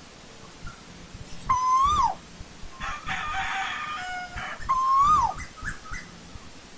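Asian koel calling: two loud calls about three seconds apart, each holding near one pitch, then rising briefly and dropping. A quieter, rougher call comes between them.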